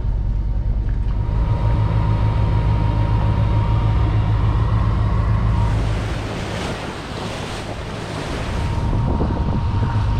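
Dive boat's engine running steadily under way, with wind on the microphone and water rushing past. A little past the middle the engine's low hum drops for a few seconds while the rush of wind and water gets louder, then the hum comes back.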